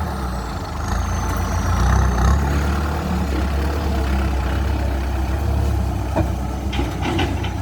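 Kubota M6240SUH tractor's four-cylinder turbo diesel engine running steadily through a 3-inch aftermarket exhaust pipe.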